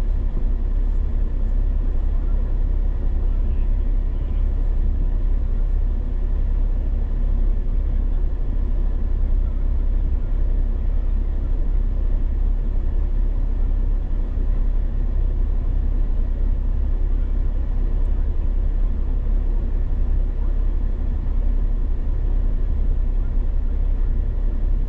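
A vehicle engine running at a steady low idle, a constant rumble with no revving.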